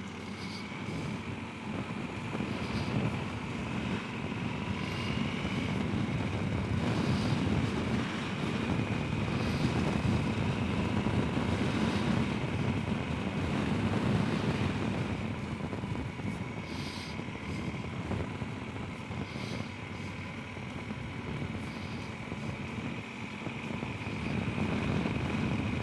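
Steady road and wind noise of riding along a road, with a faint high whine held throughout.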